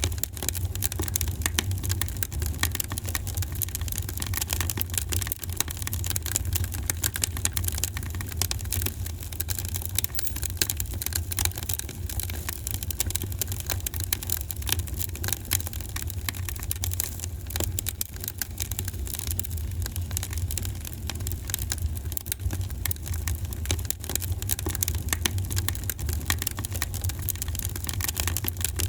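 Fireplace fire crackling, with dense rapid pops and snaps over a steady low rumble.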